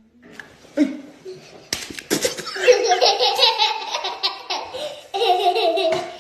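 Laughter, starting about two seconds in, in quick pulses, with a short break a little after five seconds before it resumes.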